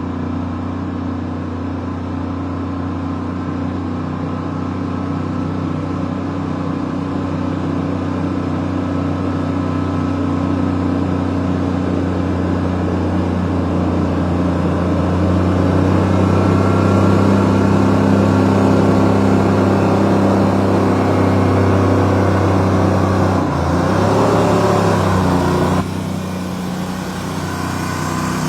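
Truck engine running steadily with a low hum, growing gradually louder. Its pitch wavers about 23 seconds in, and the sound drops suddenly in level a few seconds before the end.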